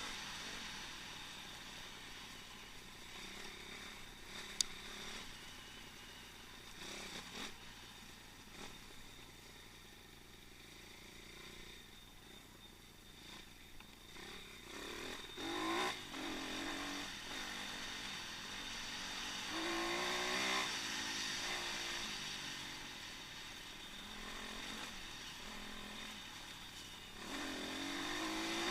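Apollo pit bike engine being ridden, revving up and easing off repeatedly, with its louder swells about halfway through, again a few seconds later, and near the end, heard through an onboard action camera. A single sharp click comes a few seconds in.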